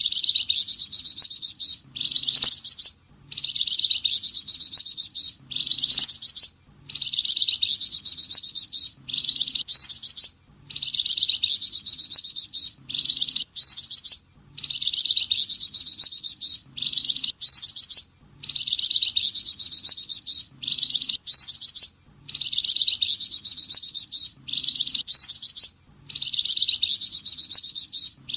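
A small songbird, called 'flamboyan' by Indonesian bird-keepers, singing its 'tembakan' song: rapid, high-pitched rattling trills in phrases of about two seconds. The phrases repeat at very even intervals with brief pauses between them.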